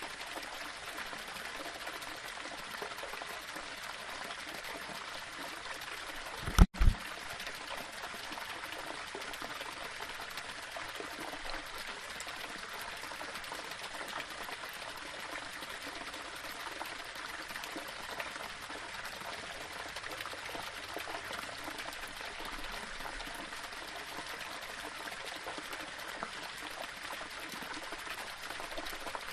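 Small waterfall splashing and trickling steadily over rocks. About seven seconds in, a brief low thump with a momentary break in the water sound.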